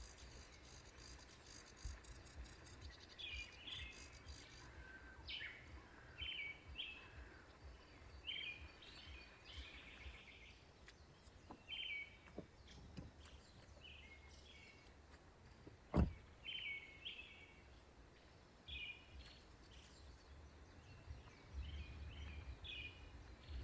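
Small birds chirping, short repeated calls coming every second or two, over a low rumble. One sharp click stands out about two-thirds of the way through.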